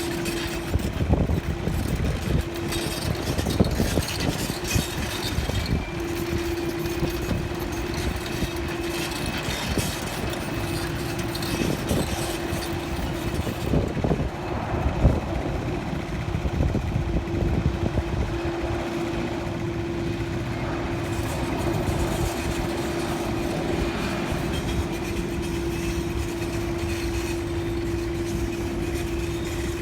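Steady engine noise with a constant droning hum that drops out and returns several times, over a rough, uneven rumble.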